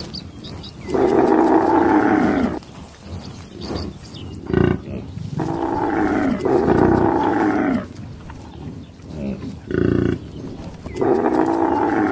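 Bactrian camels calling: three long drawn-out calls of about two seconds each, with shorter calls between them.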